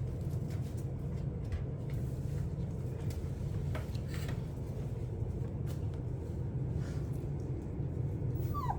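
A steady low mechanical hum, with a few faint clicks scattered through it. Near the end a puppy gives a short falling whimper.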